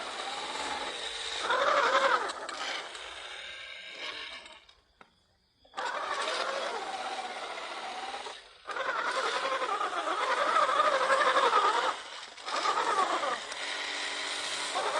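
Small electric motor and plastic gearbox of a toy RC rock crawler whining in runs of a few seconds, the pitch wavering as the throttle and load change, with short stops between runs.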